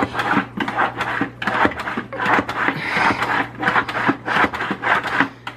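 SunSun 304B canister filter's priming pump on the lid being pushed up and down by hand in quick repeated strokes to start the siphon through the hoses. The strokes stop just before the end.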